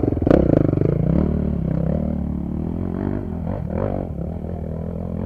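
Trail motorcycle engine revving up and down under the rider's throttle, with a sharp knock about a third of a second in.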